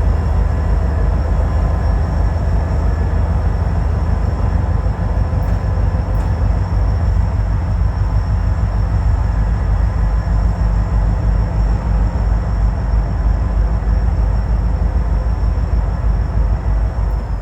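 Diesel-hauled local freight train running by with a loud, steady low rumble.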